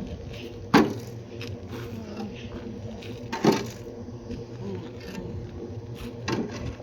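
Sharp knocks, the loudest about a second in and another about three seconds later, with a fainter one near the end, over a steady low hum.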